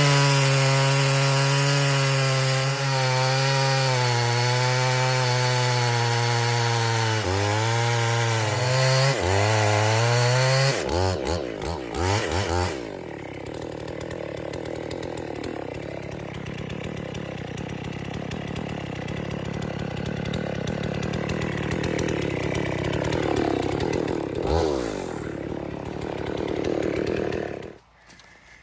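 Two-stroke chainsaw cutting into a large pine trunk at full throttle, its revs dipping briefly twice under load. About 11 seconds in it drops back to a quieter idle, which runs until the saw cuts off near the end.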